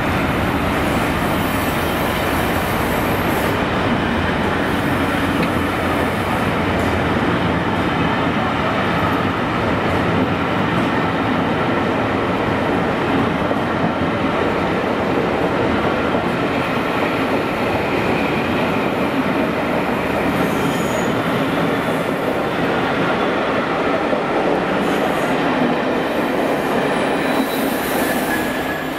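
Passenger coaches of a passing train rolling by close up: a steady rumble of wheels on rail with a thin squeal from the wheels.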